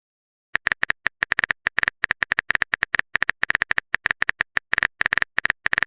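Typing sound effect: a fast, uneven run of short key clicks, several a second, each with the same bright tick.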